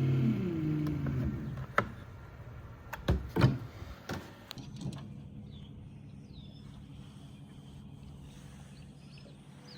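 Electric trolling motor whirring, then winding down in pitch and fading about a second in. A few sharp knocks and clicks follow, then a faint steady hum.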